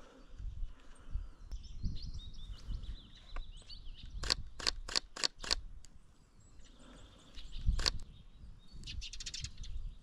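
Small birds singing and chirping. About four seconds in comes a run of five sharp, evenly spaced clicks lasting about a second, and near the end a fast rattle of clicks.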